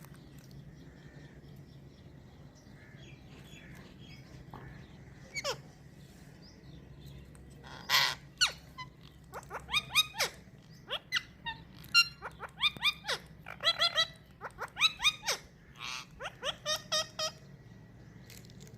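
Green ringneck parrot calling: a series of short calls, each falling in pitch. They start about five seconds in and come in quick clusters through the second half, over a faint steady hum.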